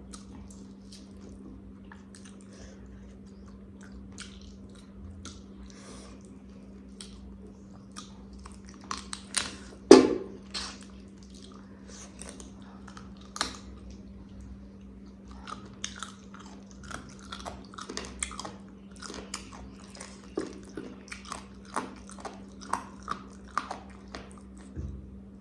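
A person chewing and biting food close to the microphone, with many small wet clicks and crunches and one much louder sharp crack about ten seconds in. A steady low hum runs underneath.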